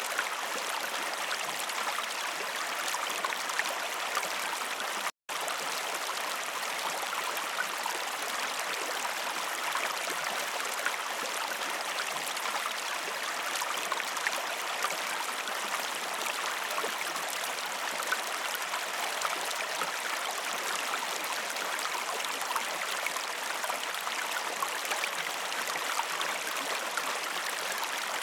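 Waterfall: a steady, even hiss of falling water, cutting out for an instant about five seconds in.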